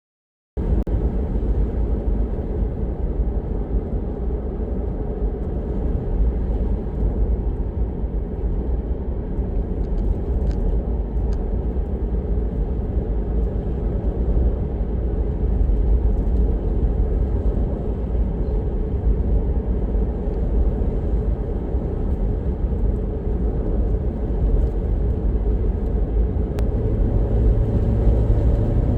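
A car driving, a steady low rumble of road and engine noise that cuts in abruptly about half a second in; a low hum joins near the end.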